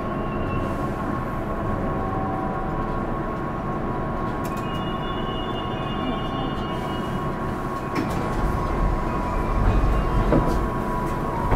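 Onboard running sound of a Keihan 8000 series electric train, with Toyo field-phase control, slowing into an underground station: steady rumble of wheels and running gear with a steady high whine and a few brief squeals. About eight seconds in a deeper rumble with a few knocks rises briefly.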